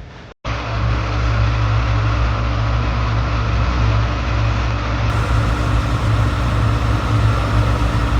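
A vehicle's engine running with a steady low rumble and hiss, cutting in abruptly just under half a second in after a moment of silence.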